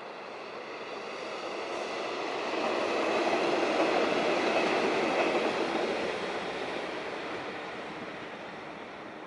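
Train running on rails, its noise swelling to a peak about four seconds in and fading away again.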